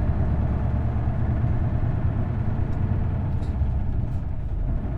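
Isuzu Erga city bus's V8 diesel engine running steadily, heard from inside the passenger cabin as a deep, even rumble.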